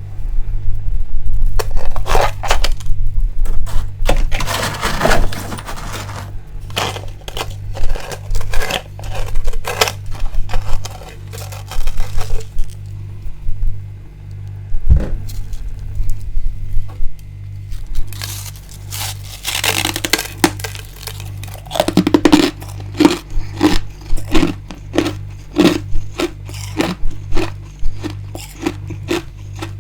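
Built-up freezer frost being scraped and bitten: stretches of rough scraping and many crisp, irregular crunches, with a steady low hum underneath.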